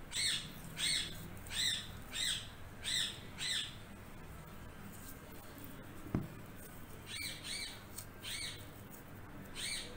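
A bird calling repeatedly, short squawks that rise and fall in pitch, about one and a half a second, pausing for a few seconds in the middle and then starting again. A brief low thud about six seconds in.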